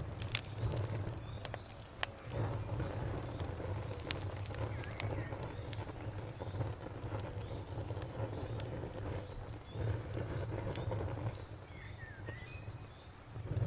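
Campfire crackling with scattered sharp pops, over crickets chirping in a steady rapid pulse and a low, dense chorus of frogs.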